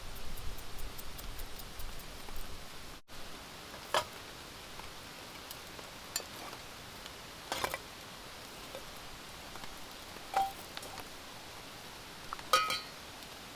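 Steady hiss of rain, with dense fast ticking in the first three seconds that stops abruptly. After that come five scattered sharp knocks or clinks.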